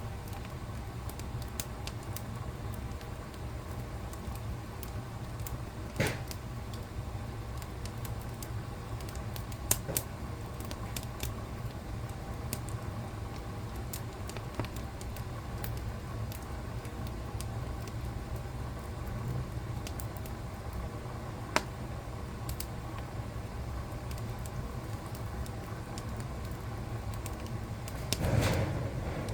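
Wood fire burning in a fireplace with a steady low rumble and scattered sharp crackles and pops, a few of them loud. Near the end there is a brief louder surge.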